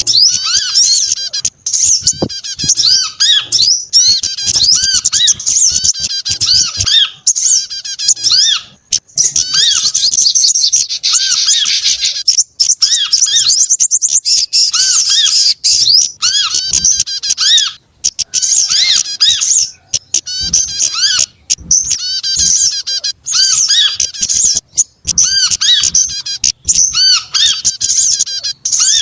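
Bird-lure recording of several small songbird species calling at once: a loud, dense chatter of high, rapid chirps and arching call notes with only brief pauses.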